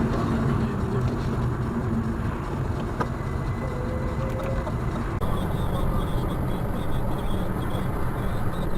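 Steady low rumble of a car driving, engine and road noise. The sound changes abruptly about five seconds in.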